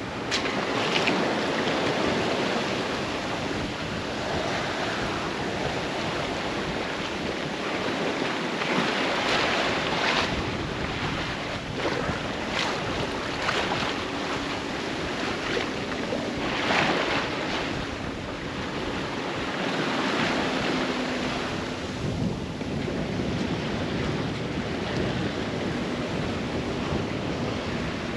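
Sea rushing and splashing past the hull of a sailboat running downwind, with louder splashes now and then, and wind buffeting the microphone.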